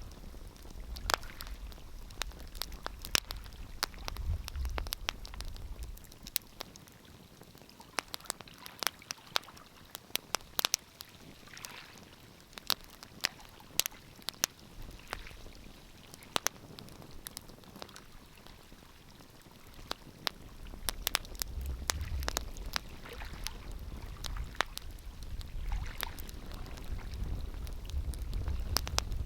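Wood fire crackling, with sharp pops scattered throughout, over a low rumble that fades after a few seconds and comes back about two-thirds of the way in.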